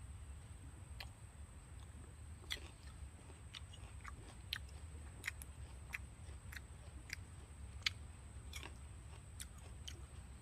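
Close-up chewing of freshly picked wild fruit: irregular crisp crunches and clicks, one or two a second.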